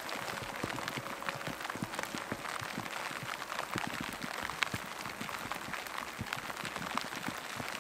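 Heavy rain coming down, a dense, irregular patter of drops striking close to the microphone over a steady hiss.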